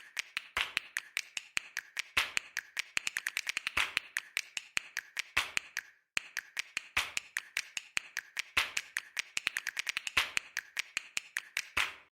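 Rapid, irregular sharp clicks and taps in a rhythmic run that stops abruptly about halfway through, then starts again and stops once more at the end.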